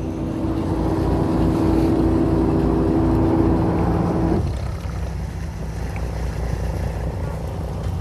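Fishing boat's engine running steadily with a low rumble. A higher steady hum over it cuts off about halfway through.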